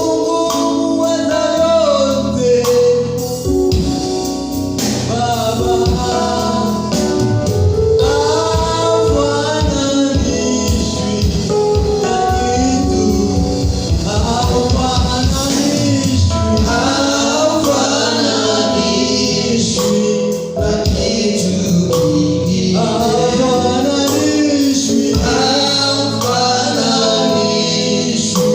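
Gospel worship song: a lead singer and choir singing over a steady beat.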